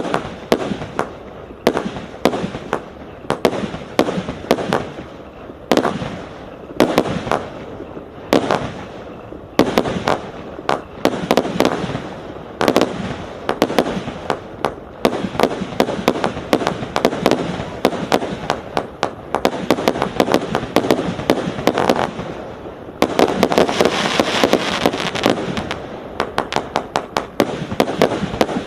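Single-ignition fireworks cake ('Annual Gala' by Hallmark Fireworks) firing shot after shot, with sharp bangs coming one or two a second. A busier stretch of crackling and rapid bangs comes about four fifths of the way through.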